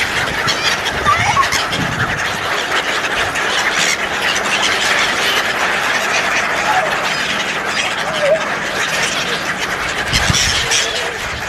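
Birds calling: a few short chirping calls over a loud, steady hiss.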